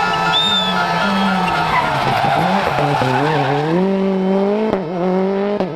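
Rally car engine at high revs with tyres skidding. The engine note holds steady, then wavers up and down about halfway through and climbs again, with a couple of short sharp cuts near the end.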